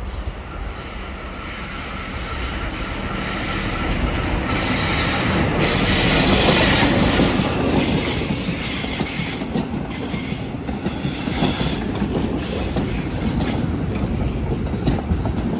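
XPT diesel-electric passenger train pulling into the platform. It builds to its loudest about six seconds in as the power car passes, then the carriages roll by with wheels clacking over the rail joints.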